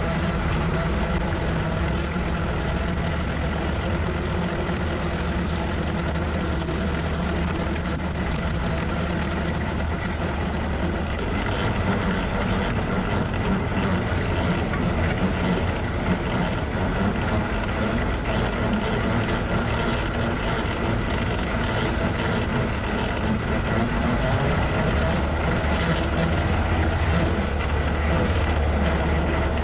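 Tractor engine running steadily with a bush hog rotary cutter mowing; the sound gets a little busier about eleven seconds in.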